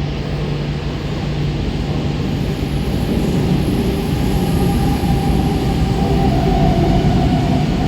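Mumbai local EMU train moving along the platform: a steady rumble of wheels on rail with whining motor tones, growing slightly louder.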